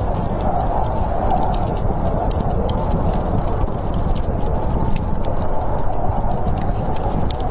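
Campfire crackling with scattered sharp pops and ticks over a steady low rush of snowstorm wind.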